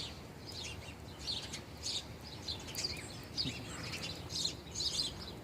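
Small birds chirping: many short, scattered high chirps, over a faint low background hum.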